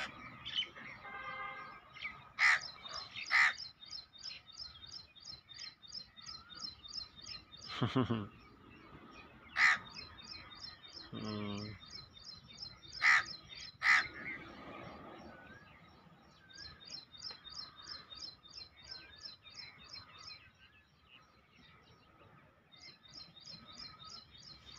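Birds calling: runs of fast, evenly repeated high chirps lasting several seconds each, with a few louder, harsh calls scattered between.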